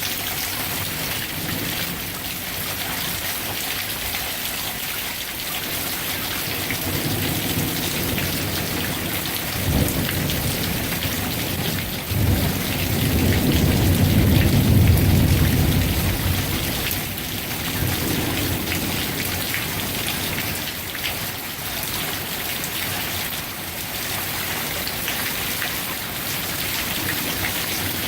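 Heavy rain falling steadily during a thunderstorm, with a rolling rumble of thunder that builds about ten seconds in, is loudest a few seconds later and dies away.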